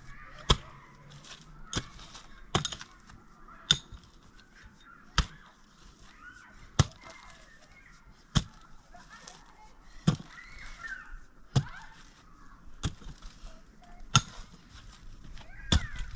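A steady series of sharp single strikes, about a dozen, one every second or so, the blows of work with a striking tool, with faint chirping between them.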